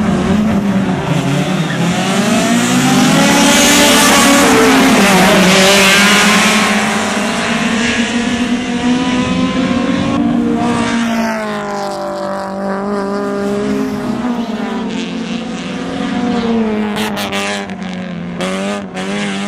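Racing engines at high revs passing at a circuit, their pitch rising and falling as they accelerate and change gear. The loudest pass comes about four to six seconds in.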